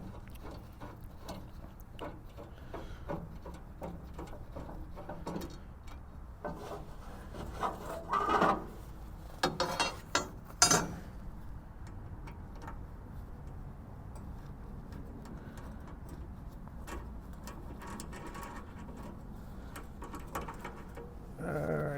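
Rubbing and light ticks of metal being handled, with a few louder clanks about eight to eleven seconds in, as the slackened band blade is worked off the wheels of a Frontier OS23 sawmill.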